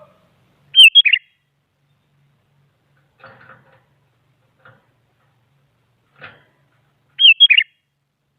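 Sooty-headed bulbul (kutilang) giving a short, bubbly call phrase of quick up-and-down notes, twice, about six seconds apart. A few faint knocks sound in between.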